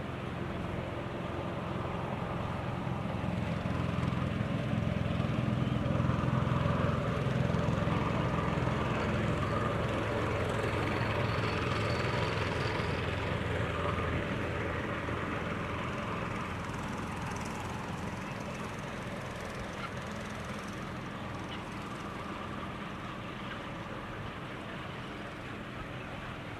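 A steady engine drone that grows louder over the first several seconds, then fades away again after about fourteen seconds.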